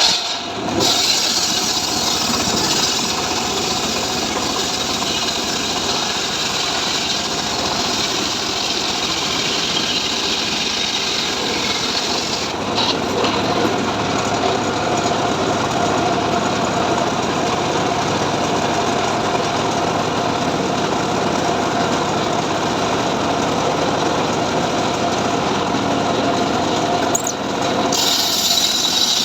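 Engine-powered saw running steadily under load while cutting mahogany timber, with brief changes in the sound about 13 seconds in and shortly before the end.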